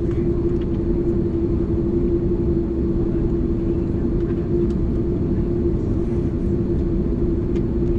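Steady cabin noise inside a Qantas Airbus A330: a low, even rumble with a constant hum running through it.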